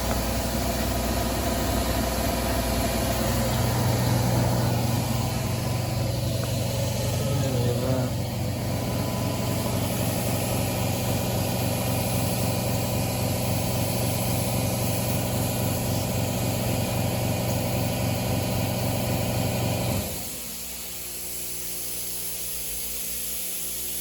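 A motor or engine running steadily with a low hum; about twenty seconds in the sound cuts suddenly to a quieter, different steady hum.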